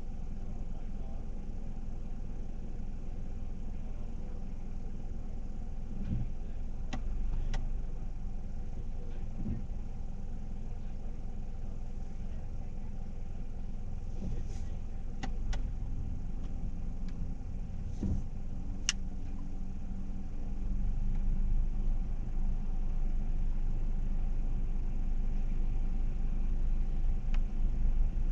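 A car's engine running at low speed, a steady low hum with a few faint clicks. The rumble gets louder about two-thirds of the way through.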